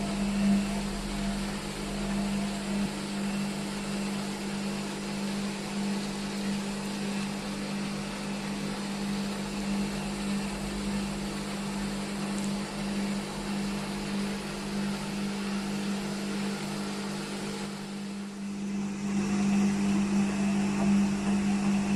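IFB washing machine running a spin-only program with a single towel in the drum: a steady motor hum. It dips briefly near the end, then comes back louder.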